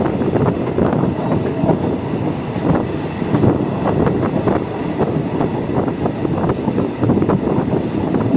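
Passenger train carriage running along the track, a steady rumble of wheels on rails with frequent irregular clacks over the rail joints.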